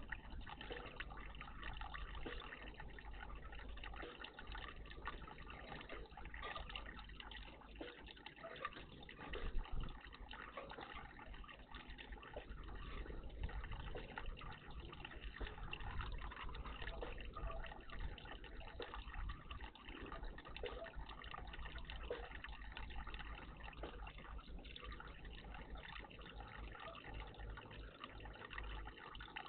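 Water trickling and splashing steadily in a garden bird bath, with one brief louder splash or knock about nine and a half seconds in.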